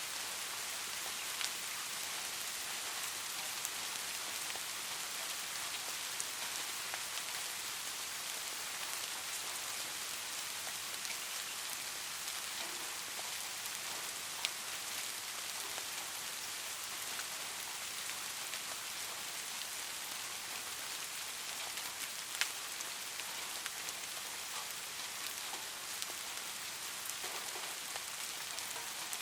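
Steady light rain hissing, with scattered drops ticking and a few sharper single drips standing out.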